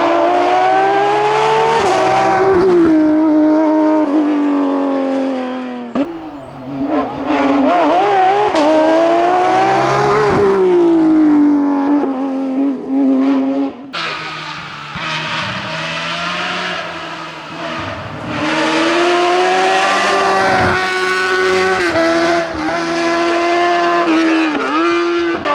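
Racing cars at full throttle on a hillclimb, with the engine pitch rising and dropping at each gear change. First comes a Porsche 991's flat-six; about fourteen seconds in it cuts to a Speedcar Xtreme.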